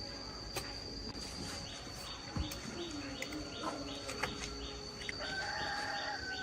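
Rural background: birds calling and insects, with a steady high-pitched insect buzz and a chirp repeating about three times a second. A few sharp clicks or taps come through, and a held bird call sounds near the end.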